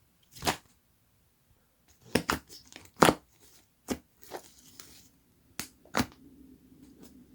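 Soft liquid slime being squeezed and poked by hand, giving irregular sharp pops and clicks as trapped air bursts, about eight in all.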